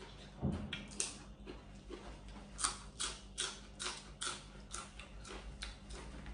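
A person chewing a mouthful of crisp spicy long bean salad close to the microphone. From about two and a half seconds in there is a run of sharp crunches, two to three a second. A single soft knock comes about half a second in.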